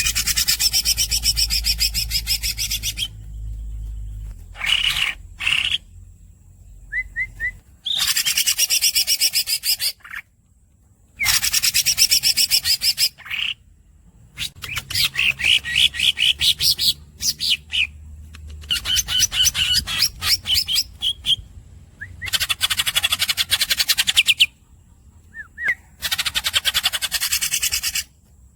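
Green leafbird (cucak ijo) singing in long rolls: about six runs of rapid, squeaky repeated notes, each lasting two to four seconds, separated by short pauses and a few brief chirps.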